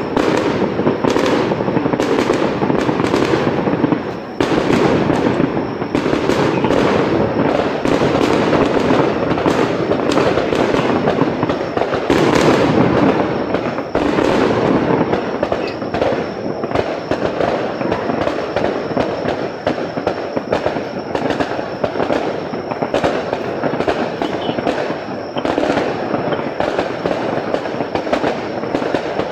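Aerial fireworks going off in quick succession: a dense run of bangs and crackling over a continuous rumble, loudest a little before halfway and thinning toward the end.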